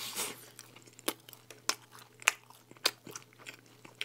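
Close-miked chewing of a mouthful of stacked thin-crust cheese pizza, with a crisp crunch on each chew a little under twice a second.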